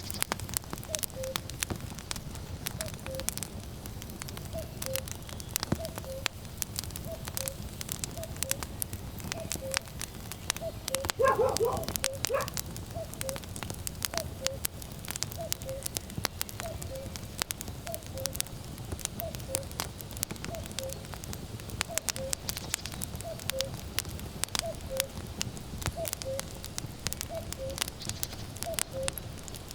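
Wood fire crackling and popping steadily, with a common cuckoo calling its falling two-note 'cuck-oo' over and over. About eleven seconds in there is one brief, louder animal sound.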